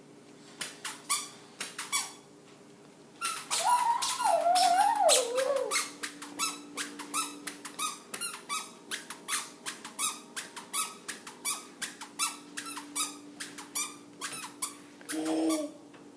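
Squeaky chappals squeaking with each step as they are walked in, about two squeaks a second. A longer wavering squeal falls in pitch a few seconds in.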